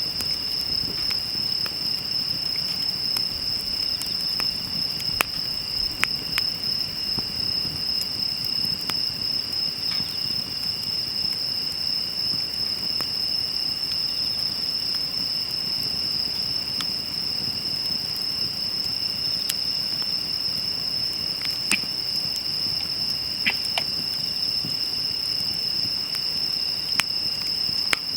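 Insects trilling steadily and without a break, over a wood fire crackling softly with scattered sharp pops, a handful louder than the rest.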